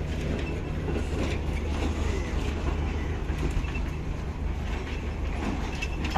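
Passenger train running, with a steady rumble and a low, continuous hum.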